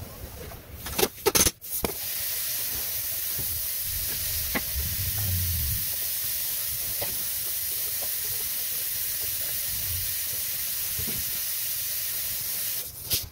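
A few sharp clicks, then a steady hiss lasting about eleven seconds that cuts off abruptly near the end.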